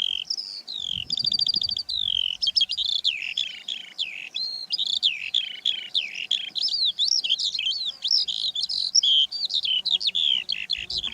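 Eurasian skylark singing: an unbroken, rapid stream of high warbles, slurred chirps and trills, with a fast rattling trill about a second in.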